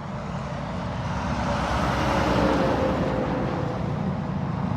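Semi truck driving past on the road, its engine and tyre noise swelling to a peak about halfway through and then easing off, with a slightly falling pitch as it goes by.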